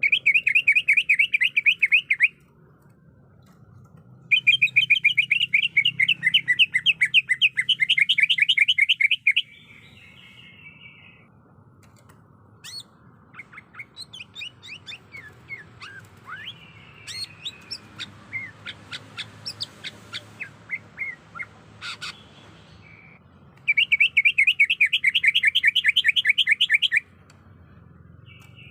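Cucak ijo (green leafbird) calls: three long runs of rapid, evenly repeated chattering notes, about ten a second, with quieter varied chirps and short whistles in the middle stretch between them.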